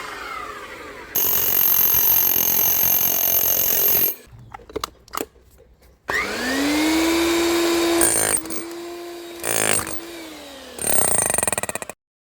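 Hilti TE60 rotary hammer test-running in several short bursts, with a few clicks between them: the motor spins up, runs steadily and winds down. Near the end comes a short burst with a fast pulsing beat, then the sound cuts off abruptly.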